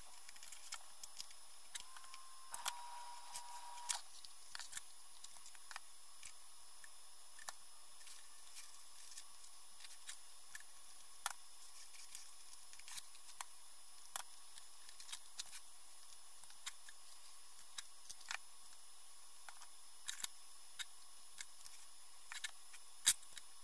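Scattered small clicks and taps at irregular intervals from handling and fitting craft trim pieces, with a sharper click near the end, over a faint steady hiss.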